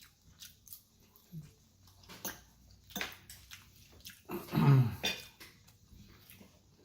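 Close-up eating sounds: scattered short smacks and clicks of chewing. About four and a half seconds in comes one louder, low vocal sound that falls in pitch.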